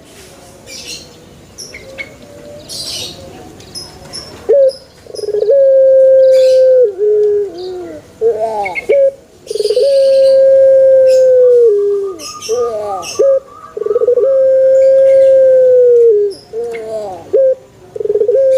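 Male Barbary dove (puter) cooing: four long coos, each held steady and dropping at the end, about every four seconds from about four seconds in, with short rising notes between them. Small birds chirp faintly in the background.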